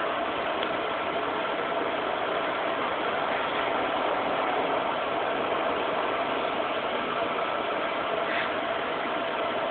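A steady mechanical hum with hiss, like a small motor or fan running, with no distinct events.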